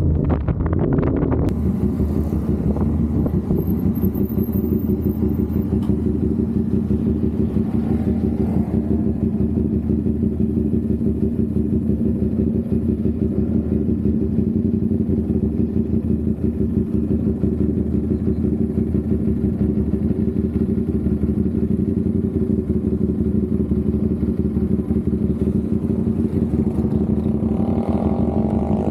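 CFMOTO 450SR's parallel-twin engine running at a steady engine speed, its exhaust note holding even and unchanged.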